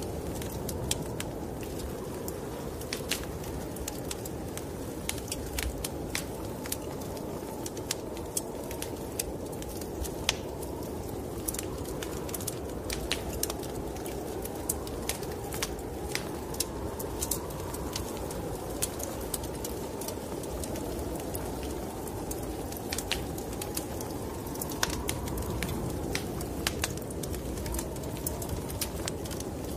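Wood fire crackling with frequent sharp pops over the steady low rush of snowstorm wind, which slowly rises and falls in pitch.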